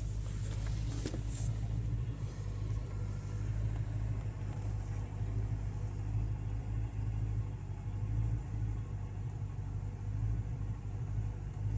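Callaway twin-turbo Corvette V8 idling steadily, a low even rumble, with a few handling clicks near the start.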